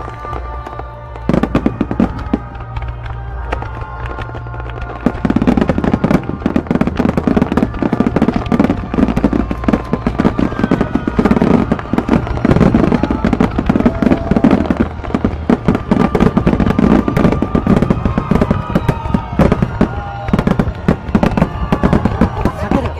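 Aerial fireworks going off: scattered bangs from about a second in, becoming a dense, rapid barrage of bursts and crackles from about five seconds in, with music playing alongside.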